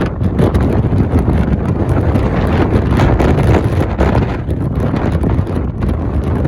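Wind buffeting the microphone over the low rumble of a car being driven, a loud, uneven rushing noise.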